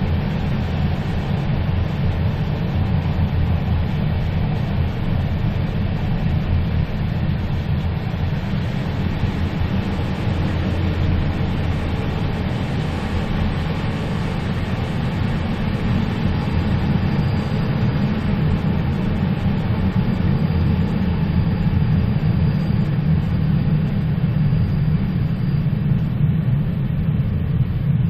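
Moving train running steadily, a deep even rumble with a lighter hiss over it. A faint high whine comes in about halfway through and fades out a couple of seconds before the end.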